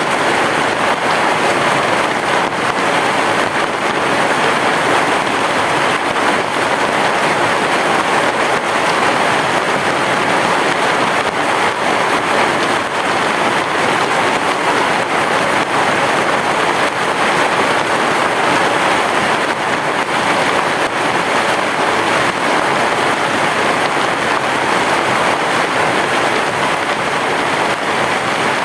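Heavy rain falling steadily, a dense, even hiss with no break and no thunder.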